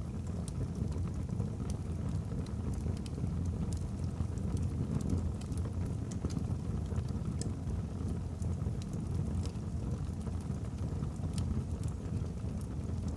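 Wood logs burning in a fireplace: a steady low rumble of the fire with scattered sharp crackles at irregular intervals.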